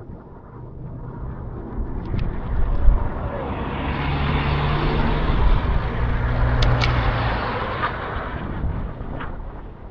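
A car passing the cyclists on the road, its engine and tyre noise growing louder over several seconds and then fading away.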